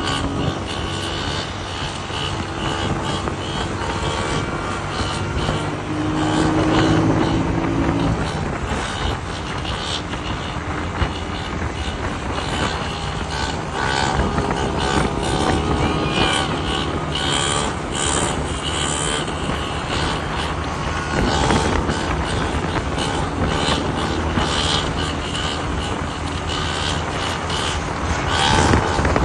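Motor vehicle noise, steady throughout.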